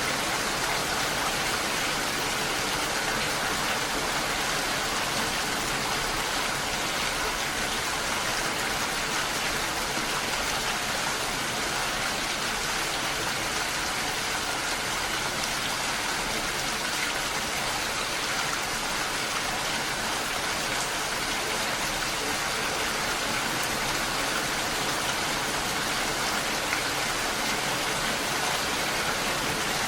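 Steady rain falling and pattering on leaves and flowers.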